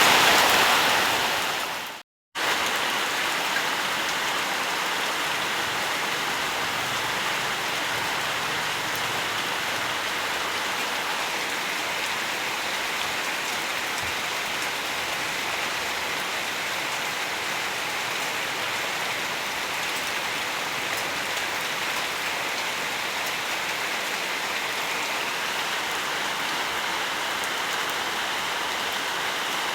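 Steady rain falling, an even hiss of many drops. About two seconds in, a louder stretch of rain fades out to a moment of silence, and a steady, slightly softer rain begins at once.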